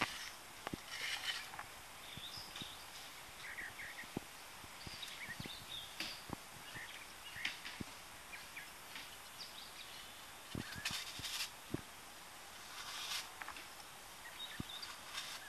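Birds chirping outdoors, with scattered light clicks and brief scrapes from excavation hand tools working soil.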